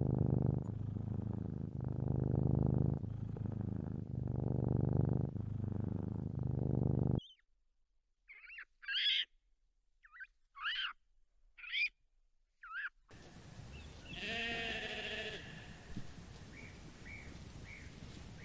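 Three separate animal recordings cut one after another. First a low pulsing rumble for about seven seconds, then five short descending calls spaced about a second apart, then a hissy recording with a falling cry and a few faint short calls.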